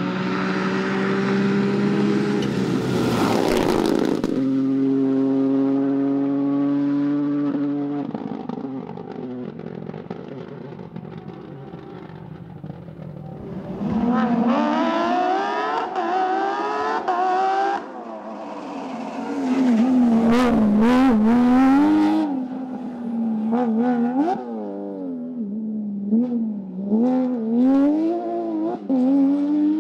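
Rally car engines on a stage: first a steady engine note, then after a quieter stretch an engine revving hard, its pitch climbing through the gears and swinging up and down as the driver lifts and gets back on the throttle, with a few sharp cracks among the revs.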